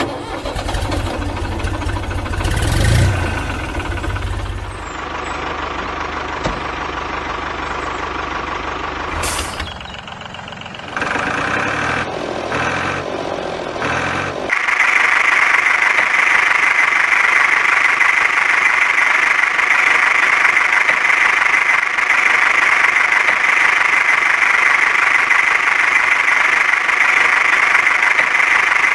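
Small engine of a homemade mini tractor chugging at low speed, changing pace a few times, then running louder and steadier from about halfway through.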